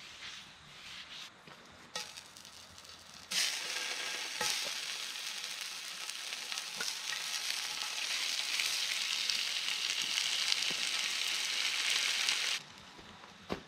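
Sausages sizzling as they cook over campfire coals, a steady hiss that starts suddenly about three seconds in and cuts off sharply about a second before the end, with a few faint knocks.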